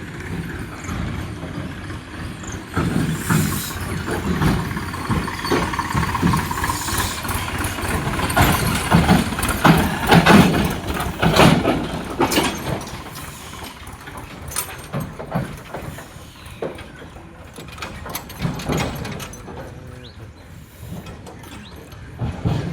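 Tractor engine running, with irregular louder surges and rattles, loudest about halfway through.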